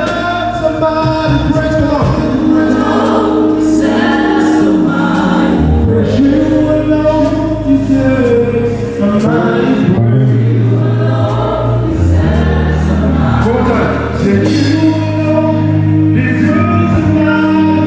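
Gospel choir singing with band accompaniment: sustained sung phrases over a steady bass line and drums.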